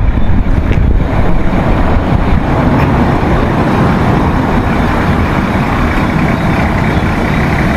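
Steady road traffic noise with the low rumble of a heavy vehicle's engine running close by.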